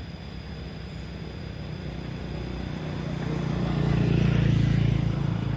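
Diesel locomotive engine humming steadily as it comes closer, growing louder to its peak about four seconds in, then easing slightly.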